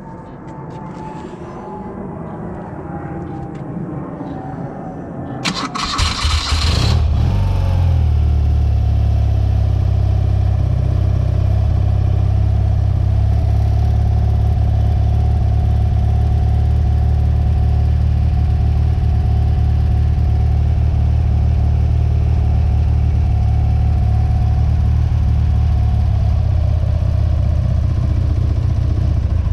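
BMW R100RS air-cooled flat-twin boxer engine started from cold. The starter cranks briefly about six seconds in, the engine catches within a second or so, then it runs steadily at idle.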